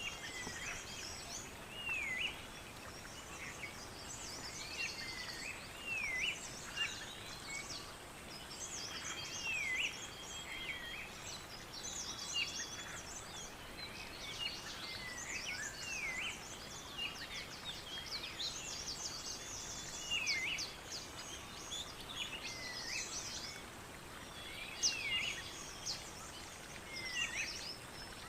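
Several birds singing and calling at once: one repeats a short swooping call that dips and rises again every second or two, over a busy mix of higher twittering and trills, against a steady background hiss.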